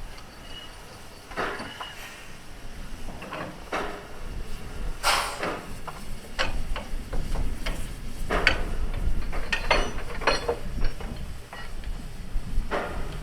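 A series of irregular knocks and clanks, a dozen or so, coming thicker in the second half, over a low rumble that grows louder toward the end.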